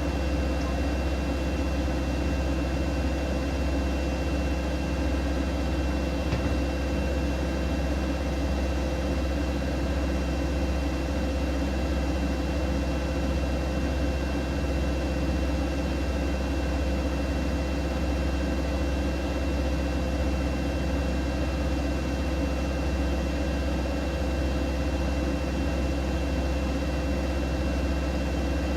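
Siemens Siwamat iQ 716 front-loading washing machine running steadily: an even low hum with a faint, constant high whine.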